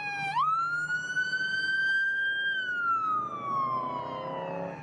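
Toy police car's electronic siren wailing. The pitch jumps up just after the start, climbs slowly for about two seconds, then falls slowly through the rest.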